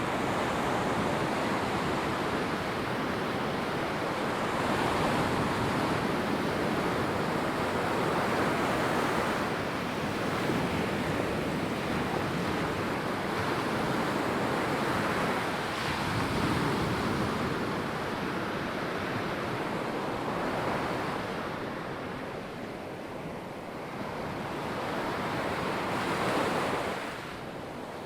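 Ocean waves breaking and washing up on a sandy beach: a continuous rushing surf that swells and ebbs, easing briefly near the end.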